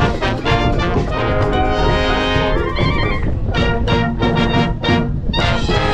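High school wind band playing a samba-style arrangement, with trumpets and trombones over samba drums: held brass chords, then short punched chords in the second half. Heavy wind rumble on the microphone underneath.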